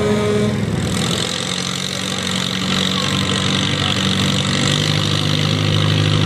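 A farm pulling tractor's diesel engine running steadily at an even speed, with a steady hiss above it from about a second in.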